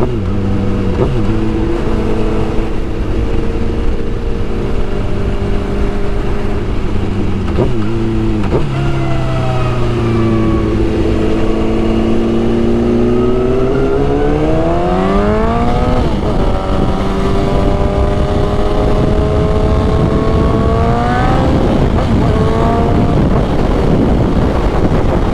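Suzuki GSX-R1000 sport bike's inline-four engine under way, heard over steady wind noise: its pitch climbs as it pulls through the gears, dropping at upshifts about eight, sixteen and twenty-one seconds in.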